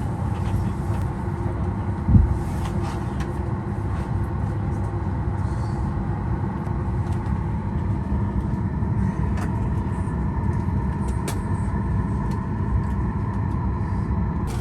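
Steady cabin hum of a parked Boeing 737 MAX 8 during boarding, with a single dull thump about two seconds in and a few faint clicks.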